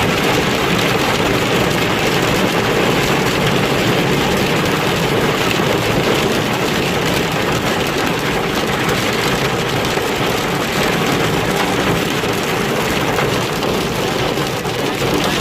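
Hailstorm: hail and rain pelting down hard and steadily, a dense, even patter of impacts with no let-up.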